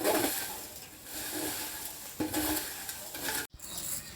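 A spoon stirring and scraping dry flattened rice (poha) in a hot pan, tossing it with fried peanuts and spices, with a light sizzle. The sound drops out briefly near the end.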